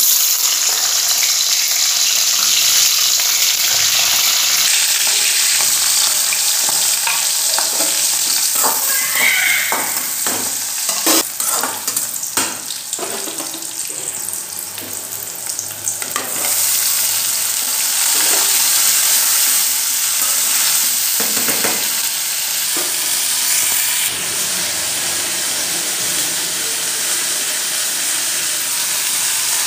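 Green chillies, then sliced onion and garlic, sizzling loudly in hot oil in a steel kadai. Between about 8 and 16 seconds in, a run of clinks and scrapes from stirring in the pan.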